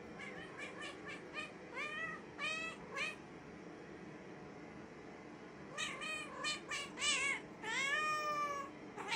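A cat meowing: two short meows about two seconds in, then a quick run of meows from about six seconds, the last one drawn out longer.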